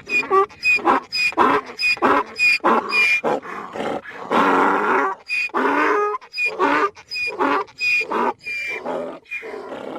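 An animal calling in a rapid series of short, loud, hoarse calls, about two a second, with one longer call about four seconds in.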